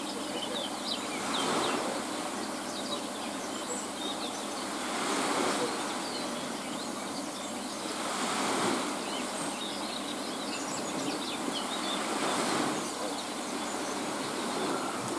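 Outdoor ambience: a steady rushing noise that swells and fades every three to four seconds, with small bird chirps scattered through it.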